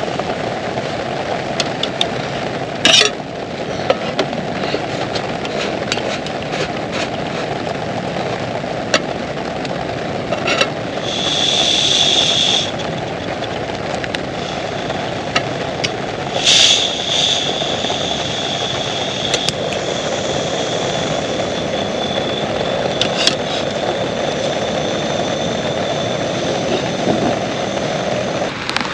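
Heavy rain falling steadily, with a few sharp taps of drops and a thin high whistle-like tone that rises out of it briefly near the middle.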